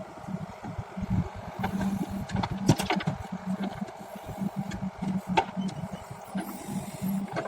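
Heavy diesel machinery running steadily, with a few sharp knocks and clanks, the loudest about two and a half seconds in.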